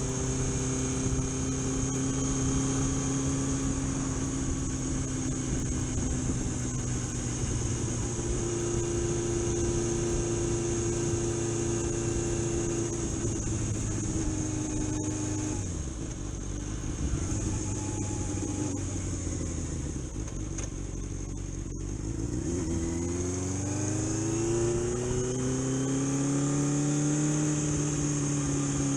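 Engine of a vehicle on a test drive after a clutch rebuild. It runs steadily, eases off about halfway through, then drops and rises in pitch as it accelerates hard before settling at a steady pace. A steady high-pitched whine sits over it.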